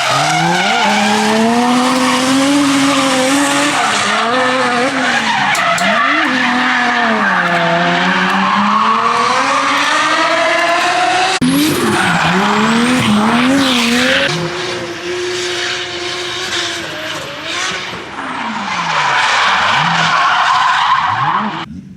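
A drift car sliding on track: the engine revs rise and fall repeatedly as the throttle is worked, over continuous tyre squeal and skidding. The sound changes abruptly about halfway through, and it is quieter for a while in the second half before the revs and tyre noise build again.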